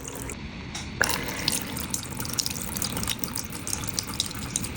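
Small solar-powered fountain spraying water into its basin: a steady splashing patter of droplets. It dips briefly near the start and comes back about a second in.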